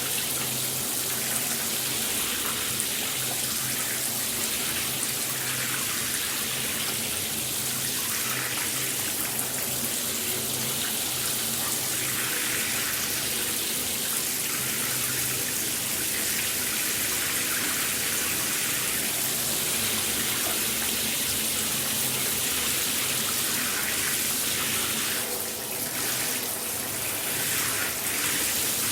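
Shower running: spray of water falling steadily as an even hiss, dipping briefly softer near the end.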